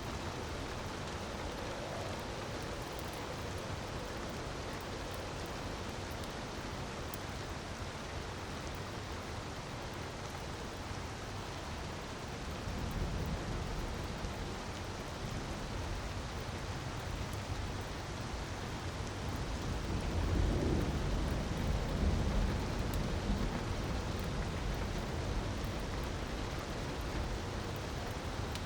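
Steady hiss of falling water, with a low rumble swelling about twelve seconds in and a stronger one about twenty seconds in.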